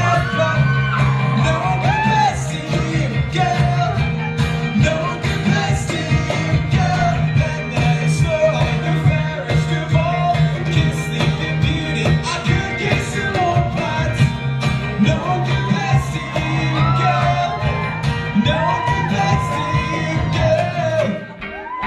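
Live pop band playing with a singer singing over a steady beat; the music dips briefly near the end.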